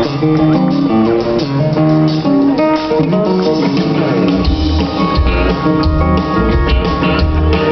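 Live country band playing a song's instrumental intro, led by guitar, with bass and drums coming in strongly about four and a half seconds in.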